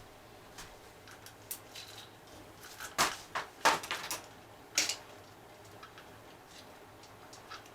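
A handful of sharp metallic clicks and clinks, bunched about three to five seconds in, from tools and engine parts being handled during timing-chain work.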